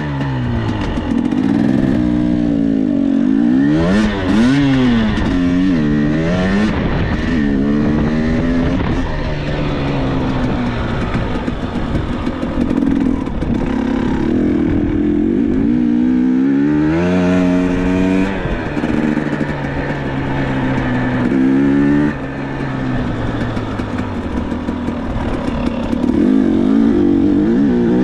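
Dirt bike engine running and revving as the bike is ridden, its pitch climbing and dropping repeatedly as the throttle opens and closes, with a sudden drop in pitch and loudness near the end.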